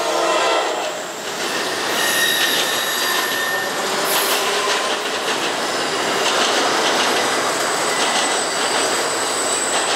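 Intermodal freight train rolling past, its wheels clattering on the rails with thin high wheel squeals. A train horn cuts off just as it begins.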